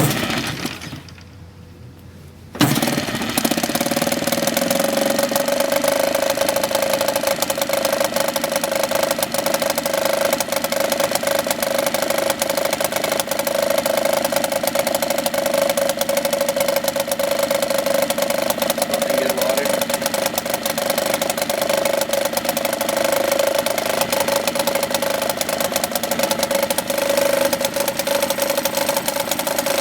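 Yamaha 4 hp two-stroke outboard motor cold-started by pull cord: a short burst right at the start that dies away, then it catches about two and a half seconds in and runs steadily.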